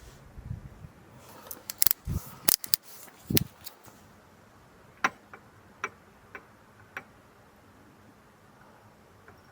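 Clicks and knocks of small objects being handled: a quick cluster of knocks in the first few seconds, then five sharp single clicks spaced about half a second to a second apart.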